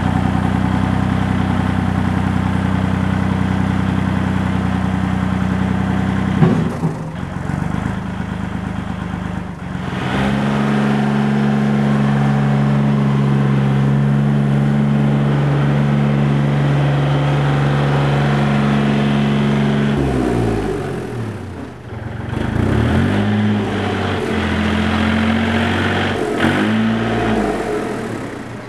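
Old Chevrolet flatbed truck's engine running, changing speed as it is driven: a sharp knock about six seconds in, the engine speed rises about ten seconds in and holds steady, then drops around twenty seconds and goes up and down.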